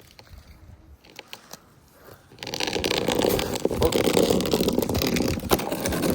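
Quiet at first, then about two and a half seconds in a loud, rough scraping and crunching on snow starts and keeps going.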